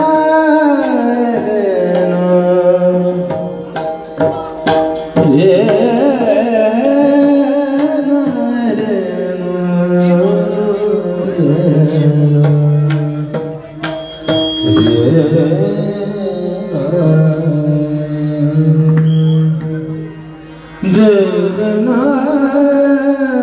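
Devotional kirtan singing: a high voice holding long, ornamented notes, accompanied by hand-drum strokes. The voice drops away briefly near the end, then begins a new phrase.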